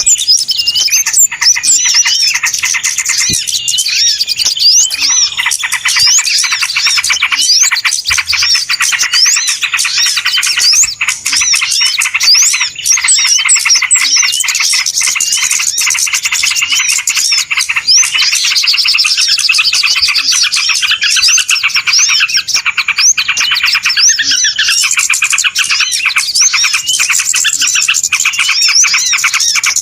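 A dense chorus of many small birds chirping rapidly and continuously, their short calls overlapping without a break: a bird-lure (pikat) recording of a noisy flock, played to draw small birds in.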